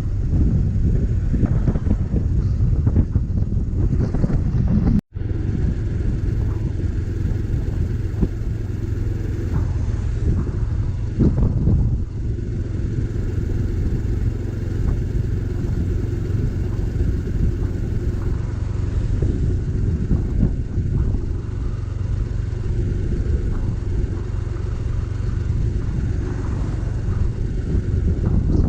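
Motorcycle engine running steadily on the move, a low drone mixed with wind rumble on the microphone. The sound cuts out for an instant about five seconds in.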